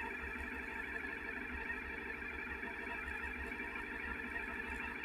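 Suzuki SV650X's V-twin engine idling steadily, fairly quiet, with an uneven low pulsing beneath a steady hum.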